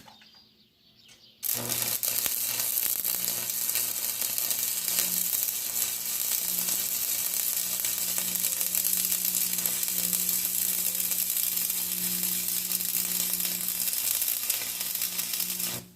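Stick (arc) welder running a bead: the arc strikes about a second and a half in, then gives a steady crackling hiss with a low hum underneath for about fourteen seconds, and stops just before the end.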